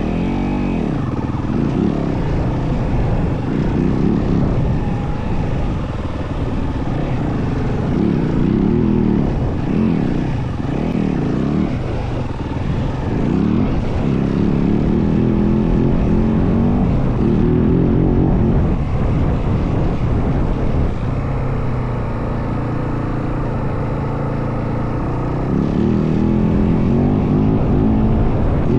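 Dirt bike's single-cylinder four-stroke engine running under load on the ride, its revs rising and falling repeatedly as the throttle and gears change, steadier for a stretch in the middle and picking up again near the end.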